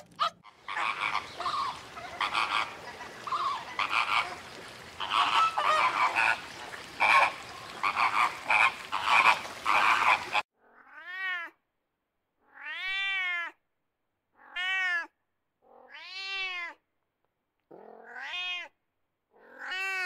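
A flock of flamingos honking over one another in a dense chorus. Then, about halfway through, a tiger cub mews about six times, each call rising and then falling in pitch.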